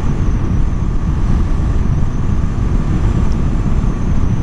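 Steady wind rumble on a helmet microphone from a Husqvarna Svartpilen 401 motorcycle riding at cruising speed, with the bike's running mixed into the rush.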